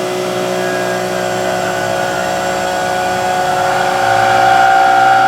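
Milling cutter in a mill cutting the part with a steady howl and vibration. The speaker puts it down to harmonics, which is tool chatter. The howl grows louder about four seconds in.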